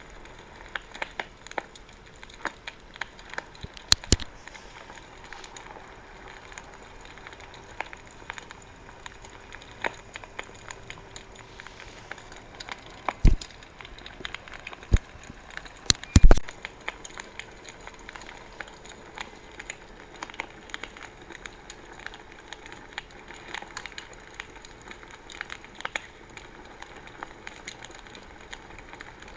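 Wood fire crackling: a steady run of small irregular pops, with a few louder sharp snaps, the loudest a little past the middle.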